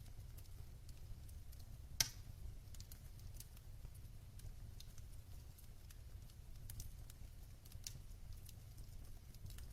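Wood fire burning in a fireplace, with a low steady rumble of the flames and scattered soft crackles, and one sharp pop about two seconds in.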